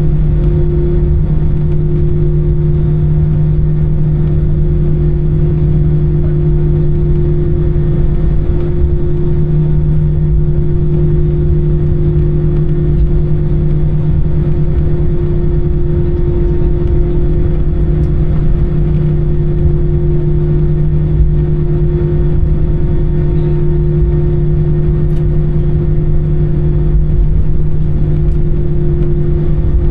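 Airbus A320 jet engines heard inside the passenger cabin: a loud, steady drone with a deep rumble and a constant low hum.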